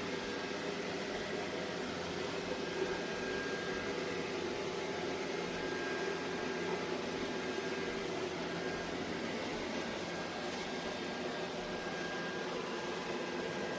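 ECOVACS Deebot T50 Omni robot vacuum running: a steady motor and fan hum with faint high tones.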